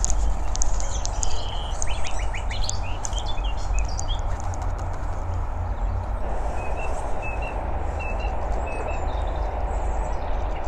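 Common nightingale singing quietly: quick clicks, a whistle and rapid trilled strokes in the first few seconds, then a run of soft, evenly repeated high notes later on. Under it runs a steady low rumble.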